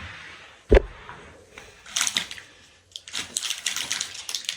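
Close-miked eating sounds: a person chewing food, with crunches, crackles and mouth clicks. A single hard thump comes just under a second in.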